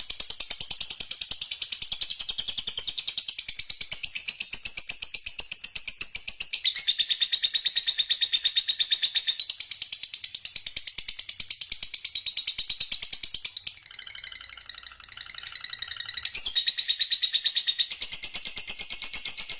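Songbird training recording: a songbird singing continuous, very fast high-pitched trills, switching to a new trill phrase several times, about 7, 14 and 16 seconds in.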